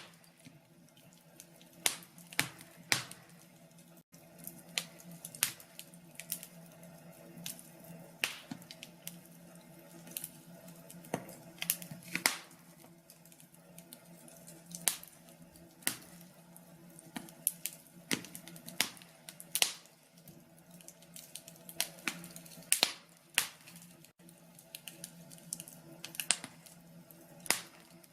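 Wood fire crackling in a fireplace: irregular sharp pops and snaps, a few of them loud, over a soft steady hiss.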